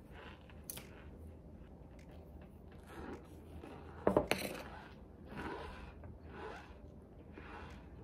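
Chunks of Argo cornstarch crunched between the teeth, a soft crunch about once a second, with a sharper crackling crunch about four seconds in.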